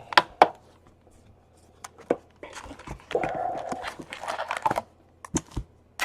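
Trading-card packaging being torn open and crinkled, a stretch of crackly tearing in the middle, with a few sharp clicks and taps before and after.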